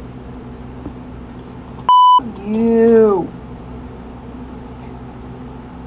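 A short, loud electronic censor bleep, a steady 1 kHz tone about a third of a second long that blanks out a word, about two seconds in, followed at once by a drawn-out spoken "you". A steady low hum runs underneath.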